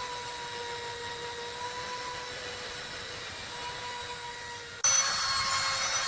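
A small power tool running steadily on metal, a constant hum with a hiss over it; it cuts abruptly to a louder, brighter stretch about five seconds in.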